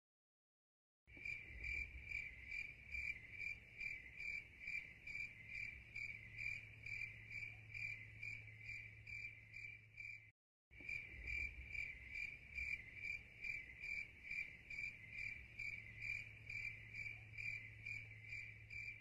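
An insect chirping in a steady rhythm, about three high chirps a second, starting about a second in and breaking off briefly near the middle. A faint low hum runs underneath.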